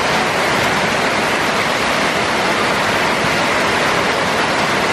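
Heavy tropical downpour: a loud, steady hiss of rain falling onto a flooded street.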